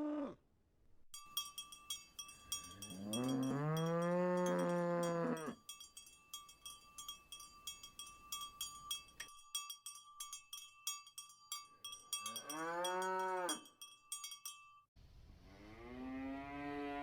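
Cows mooing, three long moos, with a cowbell clanking irregularly through the first part; the cowbell stops shortly before the last moo.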